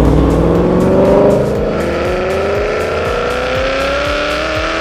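2016 Camaro SS's 6.2-litre V8 through an XForce engine-back exhaust with equal-length headers, accelerating hard with its pitch rising. It shifts up about a second and a half in and pulls again.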